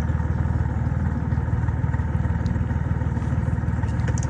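Dinghy's outboard motor running steadily at low revs, with an even low drone.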